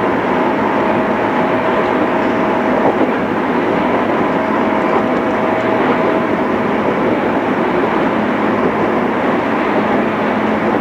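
JR East 211 series electric train running between stations, heard from inside the car: a steady rumble of wheels and running gear, with a faint steady whine that drops in and out during the first half.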